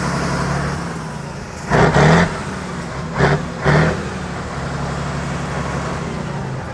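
Competition trial truck's engine running steadily. Three short, loud bursts sound over it: a longer one about two seconds in, then two quick ones a second or so later.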